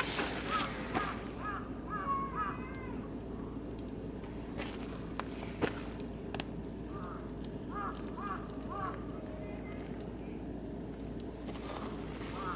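Oak and beech logs burning in a barbecue grill: the fire crackles with sharp, scattered pops over a steady low hiss. Two short runs of high chirping calls are heard, one near the start and one past the middle.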